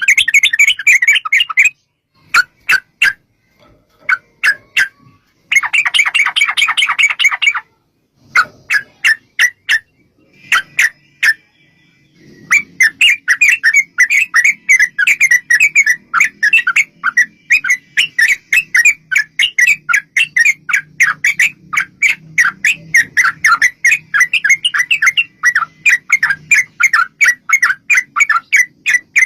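Yellow-vented bulbul (trucukan) singing rapid chattering trills. Short bursts and one dense run come first, then an unbroken fast chatter from about twelve seconds in.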